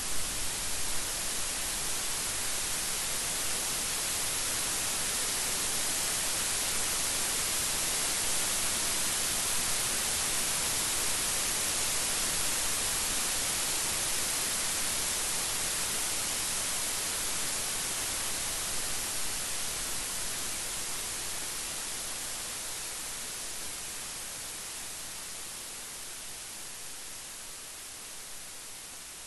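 Steady heavy rain: a dense, even hiss with no thunder, easing gradually quieter over the last several seconds.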